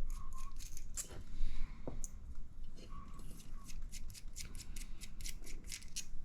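Small parts of an RC buggy shock absorber being handled and fitted by hand: a run of light clicks and ticks, coming faster in the second half.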